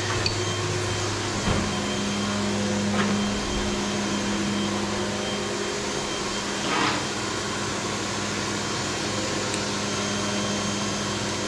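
Steady hum and whir of a Fanuc Robodrill CNC machine running a cutting cycle, with a few faint knocks of parts being handled.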